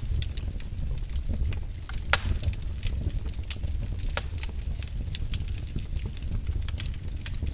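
Wood fire in a fireplace crackling, with frequent sharp pops over a steady low rumble of the flames; one louder pop comes about two seconds in.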